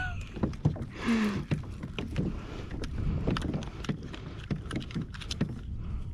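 A kayak rocking on open water, with small water slaps against the hull and a low rumble of wind on the microphone. Many small clicks and knocks are scattered throughout.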